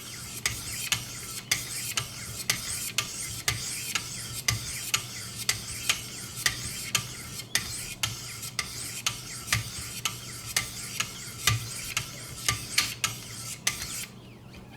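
800-grit sharpening stone being stroked along a VG-10 knife edge on a guided sharpening system: a steady rasping scrape with a sharp tick about twice a second as each stroke ends. The strokes stop shortly before the end.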